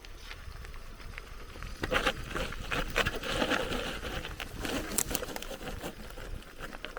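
Bicycle rolling over a rough forest trail: tyres crunching on dirt and gravel, with many irregular clicks and rattles from the bike over bumps. It gets busier and louder from about two seconds in until about five and a half seconds.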